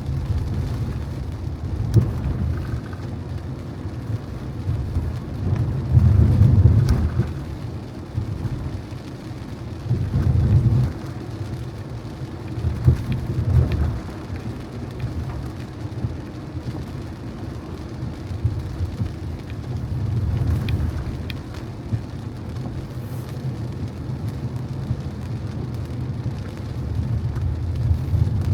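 Car driving through rain on wet city streets: a steady low road rumble with tyre noise, swelling louder a few times, and scattered light ticks of raindrops.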